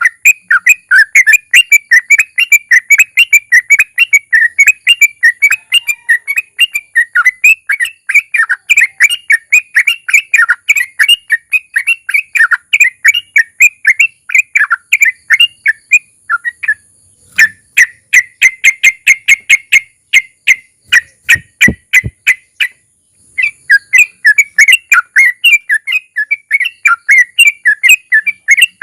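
Sooty-headed bulbul (trucukan) singing a long rolling song, a rapid unbroken string of short whistled notes. About halfway through it breaks off briefly, then gives a run of sharp, evenly spaced ticking notes before the rolling song resumes.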